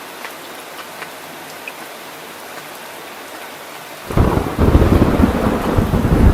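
Heavy rain falling steadily, with scattered drips. About four seconds in, a clap of thunder breaks in suddenly and rolls on as a loud, low rumble.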